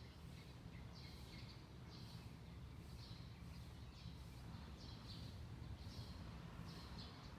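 A small bird chirping faintly in short, high calls about once a second, over a steady low background rumble.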